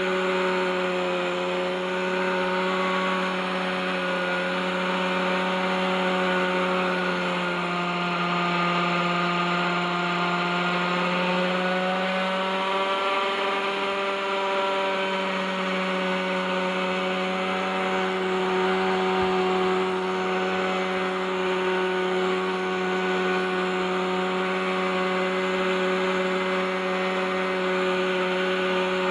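OS 61SF two-stroke glow engine of a model helicopter running steadily at hover, its pitch sagging slightly for a few seconds near the middle and then coming back up.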